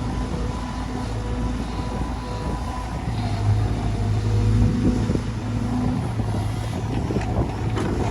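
Heavy diesel engine running steadily with a low hum, with a few sharp knocks near the end.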